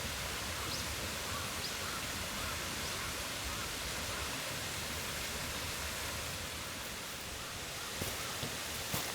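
Steady rushing of flowing water, with a few faint high chirps early on and a couple of light knocks near the end.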